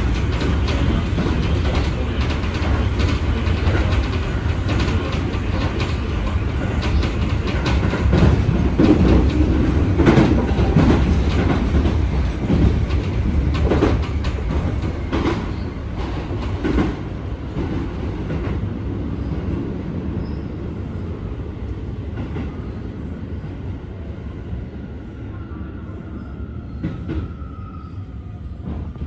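Keio 7000 series electric train running, with a heavy rumble and wheels clicking over rail joints. The rumble gradually fades over the second half, and a faint falling whine comes in near the end.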